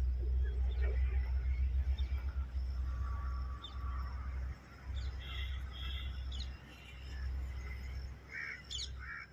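Crows cawing several times over a low, uneven rumble.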